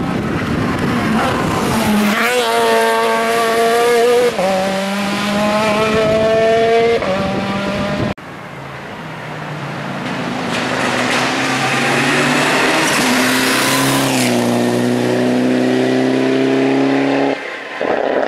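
Rally cars at full throttle on a stage. The engine pitch climbs and drops back again and again as the cars change up through the gears. An abrupt break about halfway through is followed by another car's engine rising in pitch and changing gear.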